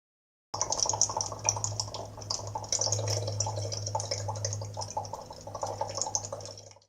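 A sound sculpture giving off a dense patter of small ticks over a steady low hum. It starts suddenly and fades out near the end.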